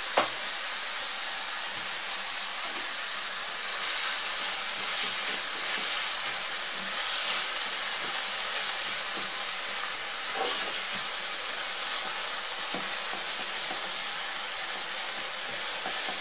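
Ground beef and diced tomatoes with tomato paste sizzling steadily in a frying pan, the beef still raw and just starting to cook. A silicone spatula stirs the tomato side now and then, with a few faint scrapes.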